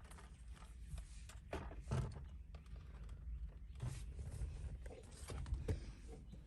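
Scattered light clicks and knocks, irregular and a few to the second, over a low rumble.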